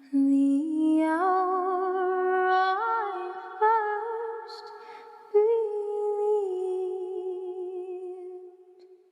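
A single voice humming a slow hymn tune a cappella, without words, in long held notes with vibrato that step upward. The humming fades away near the end.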